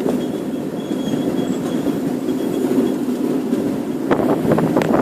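Miniature railway train rolling along its track with a steady rumble. A faint thin squeal comes through in the first couple of seconds, and a run of clicks and knocks near the end.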